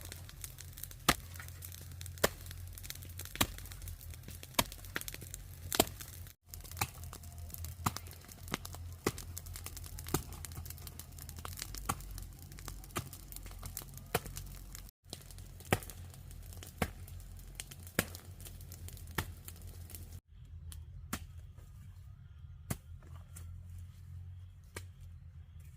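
A hand tool striking repeatedly, about one blow a second, each a sharp crack or chop, as in digging or chopping work.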